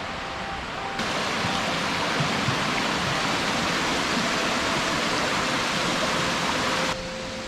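Small stream or waterfall rushing steadily. The hiss comes in suddenly about a second in and cuts off abruptly near the end.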